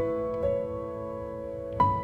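Slow, soft instrumental music led by piano, with a few held notes ringing on and a new chord struck near the end.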